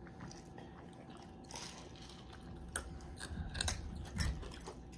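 A child chewing food close to the microphone, with scattered wet clicks and smacks of the mouth and a few sharper clicks and low bumps past the middle.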